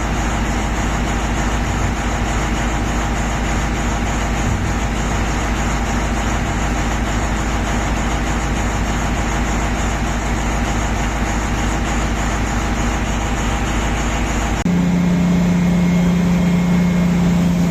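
Heavy diesel machinery running steadily with a low rumble. About fifteen seconds in, the sound changes abruptly to a different engine note with a strong, steady low hum.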